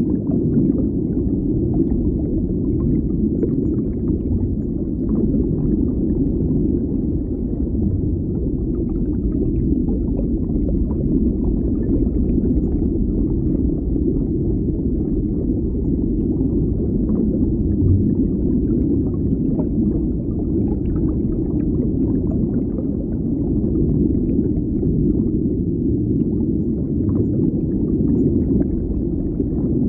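Underwater water ambience: a steady low rumble with faint scattered crackles and ticks above it.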